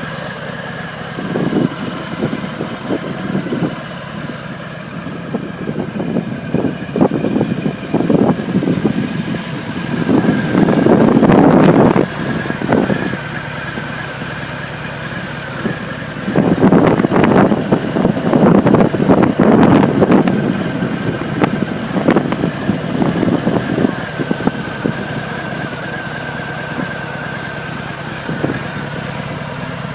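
Harley-Davidson Heritage's 114 cubic-inch V-twin engine idling. It is blipped a few times in the first eight seconds, then revved hard twice, about ten and about seventeen seconds in, each time settling back to idle.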